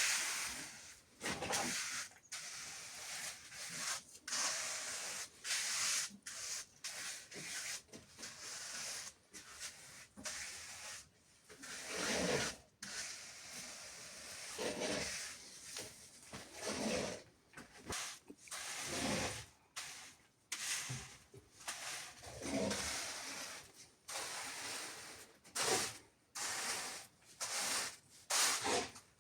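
Trowel scraping and smoothing wet cement on a floor in repeated rough strokes, roughly one every second or two.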